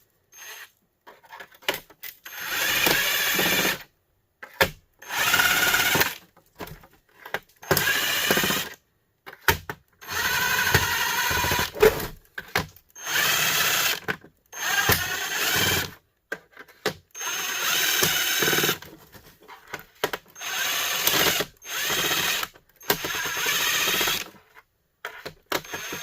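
Cordless drill/driver running in about ten short bursts of one to two seconds each, with brief pauses and small clicks between them, as screws are backed out of a plastic heater.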